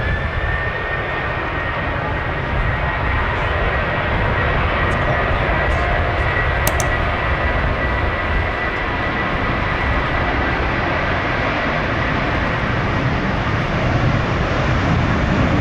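Jet airliner engines running, a high whine that rises briefly at first and then holds steady over a deep, continuous rumble.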